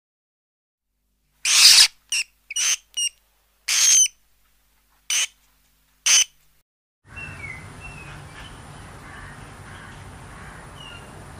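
A run of about seven short, sharp animal calls or squeaks, the first the loudest. About seven seconds in they give way to a steady outdoor background with a thin high tone and a few faint bird chirps.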